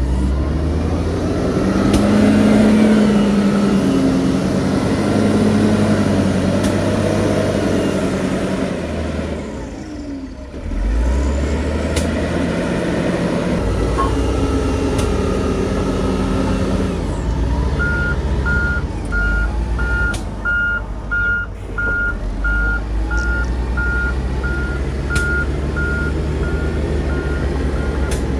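Heavy diesel earthmoving machinery running, its engine revving up and down under load. About two-thirds of the way in, a reversing alarm starts beeping steadily.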